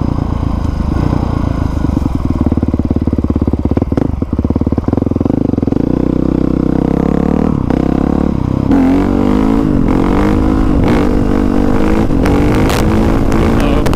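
Honda CRF450R dirt bike's single-cylinder four-stroke engine running at a steady pitch while riding. About nine seconds in, it starts rising and falling in pitch repeatedly as the throttle is opened and rolled off.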